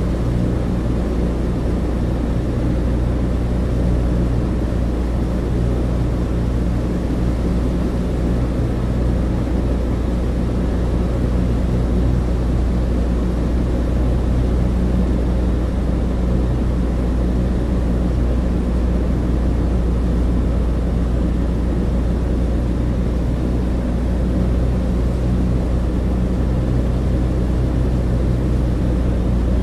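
Douglas DC-3 cabin interior in flight: the twin radial piston engines and propellers make a steady, loud, low drone with a constant hum of low tones that does not change.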